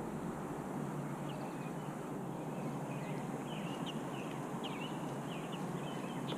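Birds giving many short, high chirps from about a second in, over a steady low background rumble.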